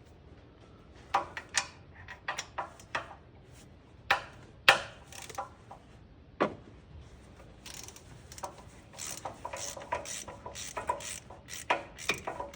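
Steel hand tools clinking as a 15 mm deep-well socket goes onto the ratchet, then, from about eight seconds in, a run of quick ratchet clicks as an exhaust manifold bolt is worked loose.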